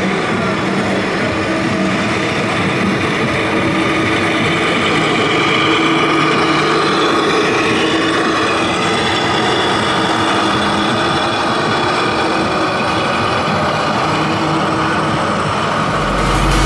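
Radio-controlled model trucks running with a steady engine-like hum made up of several tones.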